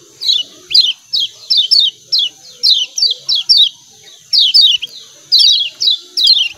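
Kecial kuning white-eyes giving their 'ciak ciak' call: sharp, high, falling chirps in quick pairs and triplets, repeated over and over in a busy stream.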